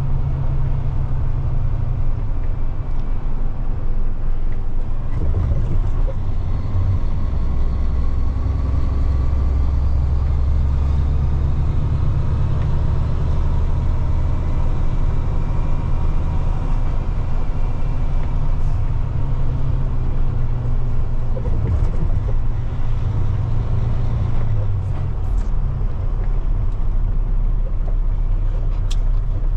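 Semi truck's diesel engine running steadily as heard from inside the cab while driving with a heavy trailer, a deep low rumble whose low note shifts a few times.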